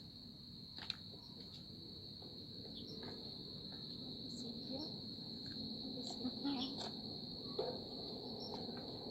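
Insects trilling, one steady high-pitched tone that does not break. Under it runs a low rumbling haze, with a few sharp clicks, the loudest about a second in and near the end.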